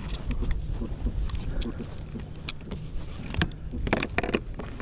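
Small clicks and rattles of handling as the angler works at a hooked catfish, with a cluster of sharper clicks about three and a half to four and a half seconds in, over a steady low rumble of wind and water on the microphone.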